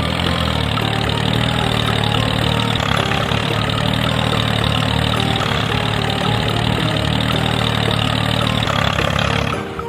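Mini tractor engine running steadily, dropping away just before the end.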